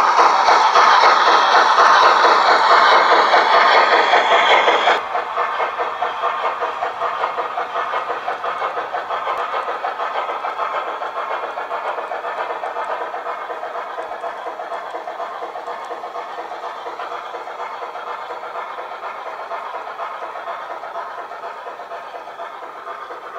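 Garden-railway model train running along the track with a fast, even ticking, its sound fading slowly as it moves away. The level drops suddenly about five seconds in.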